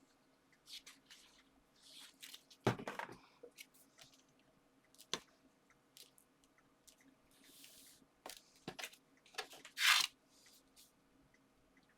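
Paper and card being handled: scattered rustles, light taps and scrapes as a layered paper strip is positioned and pressed onto a card base, with a louder knock about three seconds in and a louder rustle about ten seconds in.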